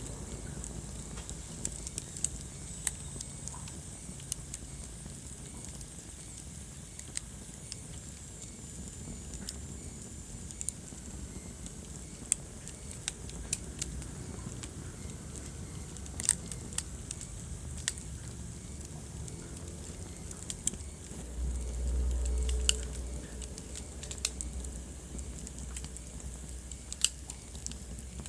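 Wood fire crackling in a fireplace: irregular sharp pops over a steady low rumble of the flames. A louder low rumble swells for about a second and a half about three-quarters of the way through.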